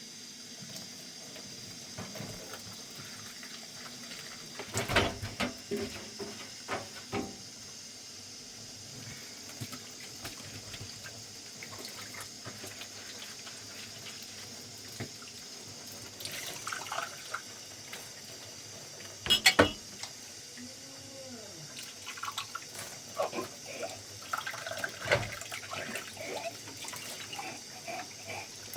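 A steady hiss with scattered knocks and clatter from work by hand: a cluster of knocks about five seconds in, a loud knock a little past the middle, and a busy run of small knocks and rattles near the end.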